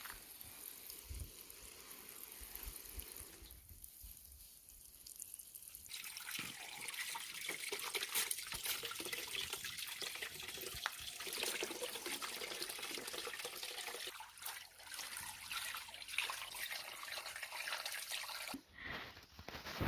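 Water running and splashing, growing louder and busier about six seconds in.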